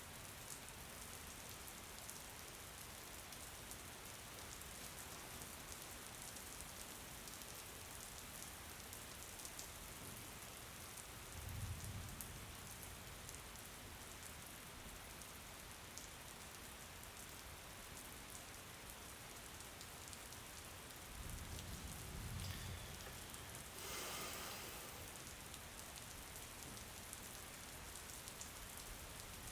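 Steady rain falling, with a continuous hiss and fine drop ticks. Two brief low rumbles come through, about twelve seconds in and again about twenty-two seconds in, and a short louder hiss follows soon after the second.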